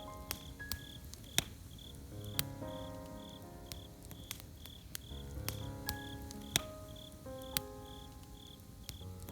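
Campfire crackling with scattered sharp pops, over crickets chirping steadily about twice a second, with soft music of held notes underneath.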